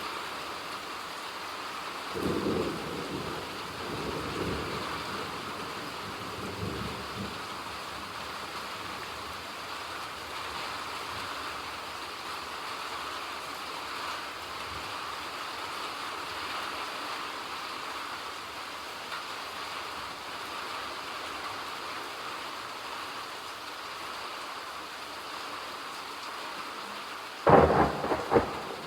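Steady rain in a thunderstorm. A rumble of thunder rolls for several seconds starting about two seconds in, and a loud, sudden thunderclap breaks near the end.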